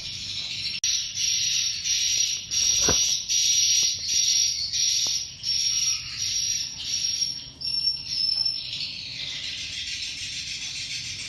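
Swiftlet calls: a dense, high chirping that swells and fades in quick pulses, then runs on more evenly near the end.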